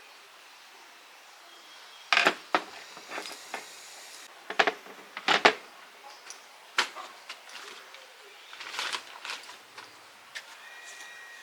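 Metal parts and hand tools being handled on a workbench: a series of sharp clacks and clicks, several in quick pairs, with a brief high tone near the end.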